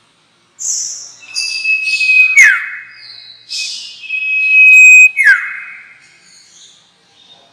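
Sirtu (bar-winged prinia) calls played as a lure recording: harsh buzzy chattering notes over a long held thin whistle, cut by two quick falling notes, starting about half a second in.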